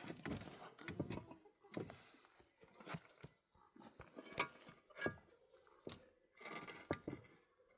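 Irregular light knocks and clicks, as of things being handled.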